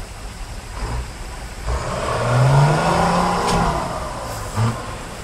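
Diesel engine of an off-road trial truck revving hard in the mud, the pitch climbing from about two seconds in and then easing off, with a short blip of throttle near the end.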